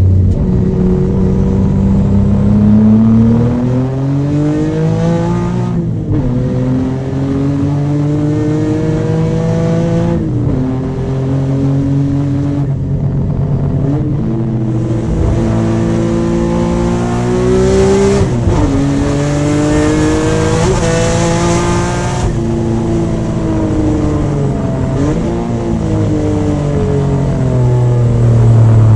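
Nissan S13 drift car's engine run hard on a track lap: its note climbs under full throttle and drops sharply at each gear change or lift, about four times.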